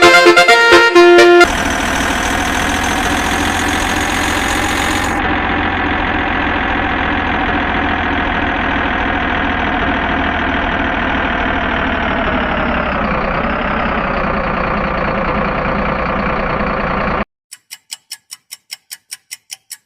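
A brief burst of music, then a long steady truck sound effect: a held horn-like tone over an engine rumble, which dips slightly in pitch near the end and cuts off suddenly. A quick run of ticks follows, about six a second.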